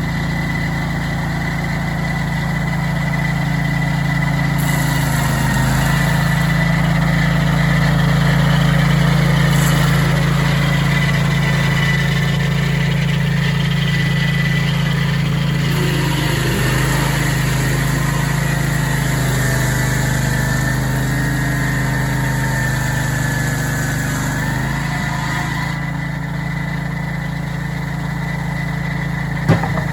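Portable sawmill's engine running steadily while the mill's blade cuts through a large cottonwood log, trimming off its top. A thin high whine runs above the engine, a hiss of cutting rises from about five seconds in and fades near the end, and there is a sharp click just before the end.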